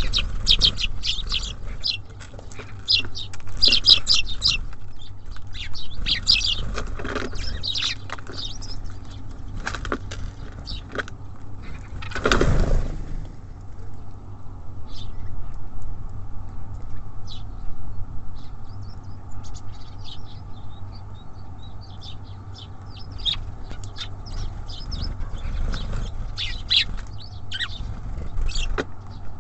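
Small songbirds at a feeder chirping and twittering in many short high calls, with a brief loud rush of noise about twelve seconds in. A steady low rumble runs underneath.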